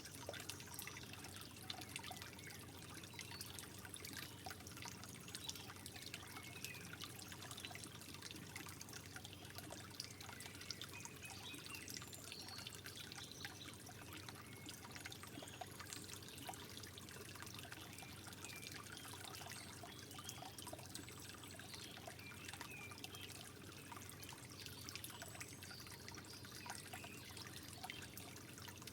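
Gentle trickling water, a soft steady flow with many small drips and gurgles.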